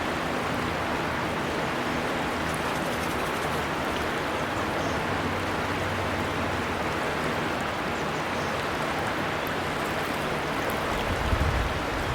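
River water flowing steadily with an even rushing, with faint high bird chirps here and there. There is a brief low rumble near the end.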